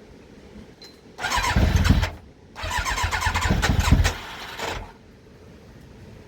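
Yamaha YZF1000R Thunderace inline-four being cranked on its electric starter in two bursts, a short one and then a longer one, without settling into a run. It is reluctant to fire after a carburettor rebuild.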